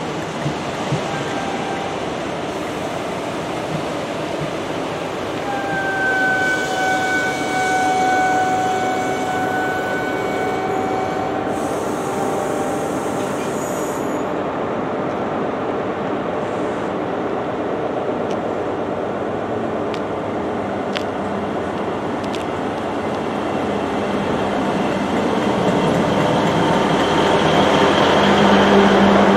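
Passenger trains running through a station: a steady rumble of wheels on track, with a long, high, held tone for about five seconds from around six seconds in. The rumble grows louder near the end as a Great Western Railway train passes close by.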